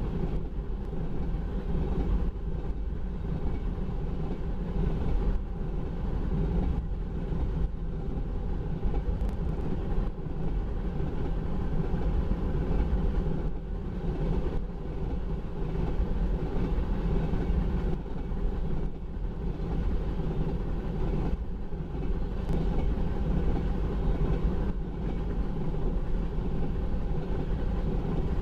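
Empty railroad tank cars of a freight train rolling past, a steady noise of steel wheels on the rails.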